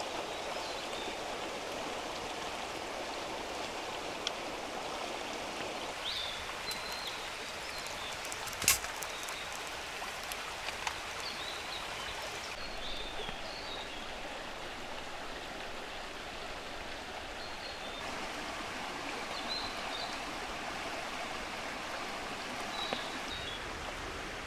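Steady rushing of water, with faint short high chirps now and then and one sharp click about nine seconds in.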